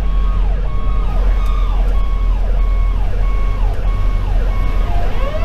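Fire engine's electronic siren sounding a quick repeating pattern, each cycle a falling sweep about every half second, over the steady drone of the truck's Detroit Series 60 diesel. About five seconds in, the Federal Q2B mechanical siren starts winding up, its pitch rising steadily.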